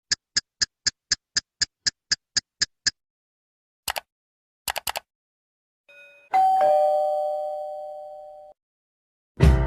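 A string of short sound effects. It opens with about a dozen quick, evenly spaced high beeps, about four a second, followed by a few fast clicks. Then comes a two-tone ding-dong doorbell chime, a high note followed by a lower one, fading out over about two seconds. Music starts near the end.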